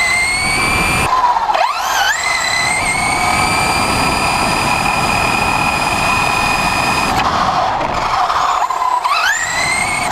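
Electric motor of a radio-controlled truck whining under throttle: the whine rises in pitch as it accelerates and holds steady at speed, drops away briefly about a second and a half in and again near nine seconds, and climbs back up each time, over a rough rushing noise.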